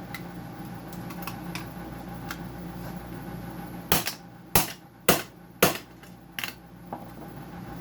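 Five sharp plastic cracks about half a second apart, about halfway through, as the plastic housing of a dehumidifier switch is opened to get at the micro switch inside.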